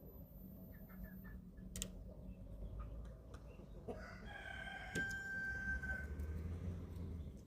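An 11-week-old young chicken crows once, a single drawn-out call of about two seconds that starts about four seconds in. A few short sharp clicks come before and during it.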